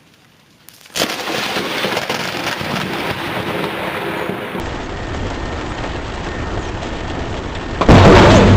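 Thunderstorm: after a brief quiet, a sudden sharp crack from a close lightning strike gives way to steady heavy rain and thunder noise. Near the end a much louder sound with a low hum cuts in.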